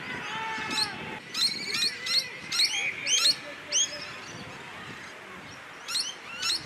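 Birds calling in a string of short, arched chirps, loudest between about one and four seconds in and again near the end. A long held shout near the start.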